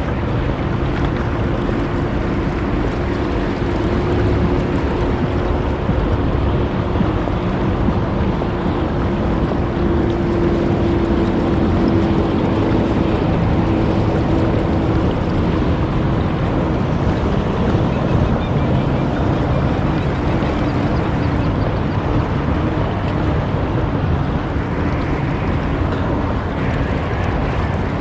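Wind and water noise on open water, with a steady engine hum from a motorboat passing close by that fades out after about twenty seconds.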